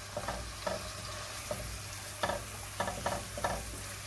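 Chicken pieces sizzling in hot oil in a pot while being stirred, the utensil scraping and knocking against the pot several times at irregular moments.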